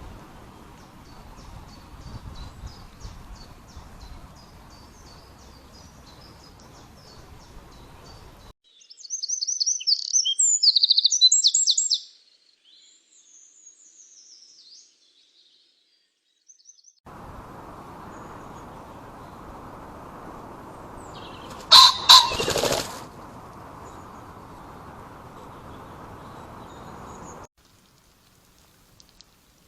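Trail-camera recordings with a steady background hiss and faint repeated high ticks, broken by a loud burst of high, quickly warbling songbird song lasting about three seconds. Later, after a cut, there is a brief loud sharp burst over the hiss.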